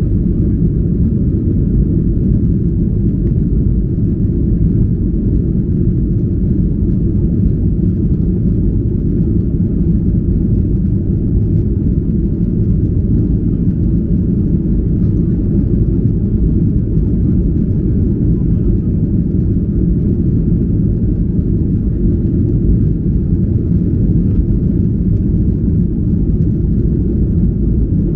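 Steady low rumble of engine and airflow noise heard inside the cabin of a Boeing 737-800.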